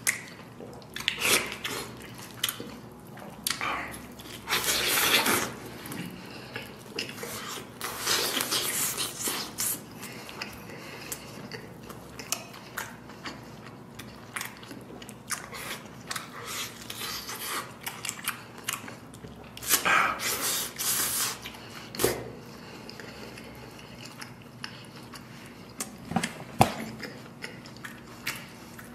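Close-miked eating: chewing and biting tender stewed lamb pulled from the leg bone by hand, in irregular bursts, the loudest about five, eight and twenty seconds in, with a few sharp clicks of dishes.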